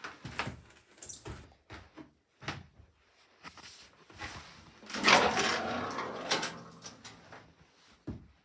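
Scattered knocks and clunks, with a louder scraping or rattling stretch about five seconds in.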